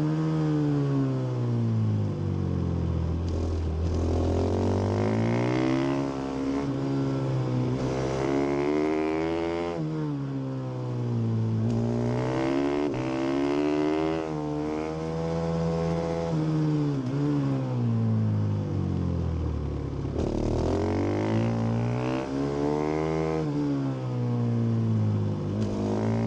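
Husqvarna FS450 supermoto's single-cylinder four-stroke engine with stock exhaust at racing speed, revving hard and climbing through the gears, then dropping away three times as it slows and downshifts before climbing again.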